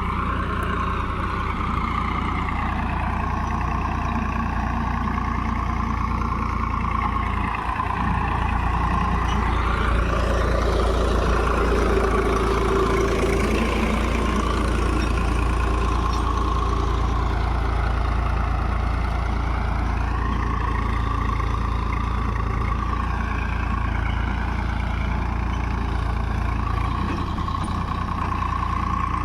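Tractor diesel engine running steadily, a little louder in the middle stretch.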